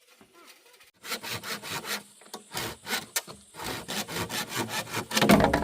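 A hand saw cutting through wood in quick back-and-forth strokes, starting about a second in and growing loudest near the end.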